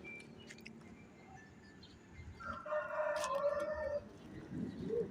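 A rooster crowing once, starting about two and a half seconds in and lasting about a second and a half.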